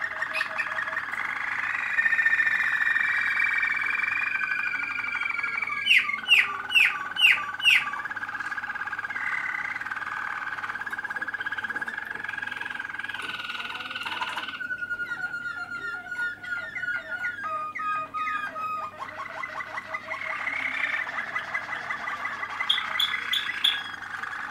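Malinois (Waterslager) canary song: long unbroken rolls and trills, with a run of four loud sharp notes about six seconds in and a few more just before the end.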